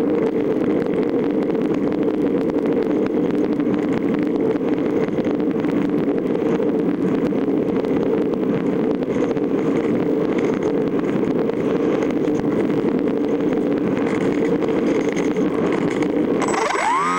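Steady noise of a moving vehicle, its running mixed with wind roar and crackle. Near the end it gives way to a rising tone that levels off into a steady hum.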